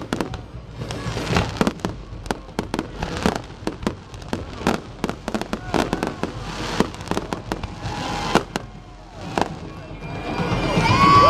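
Fireworks display: a rapid, irregular series of sharp bangs and crackles from bursting shells. Near the end the bangs stop and a crowd begins cheering and whooping, getting louder.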